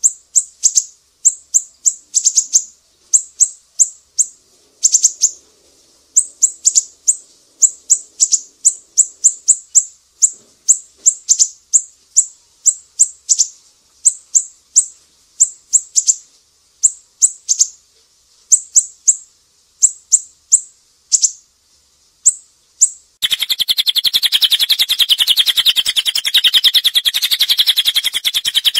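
Recorded songbird calls: quick, high, sharp chirps that sweep downward, repeated in irregular runs of several a second. About 23 seconds in they cut abruptly to a fast, continuous buzzy trill from a different bird.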